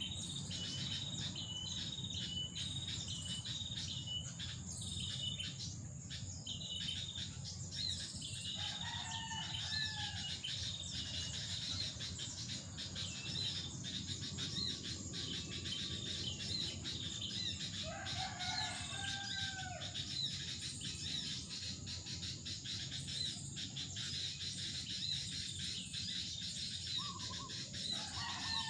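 Small birds chirping rapidly and repeatedly over a steady high insect drone, with a few lower, fuller bird calls about nine, eighteen and twenty-seven seconds in.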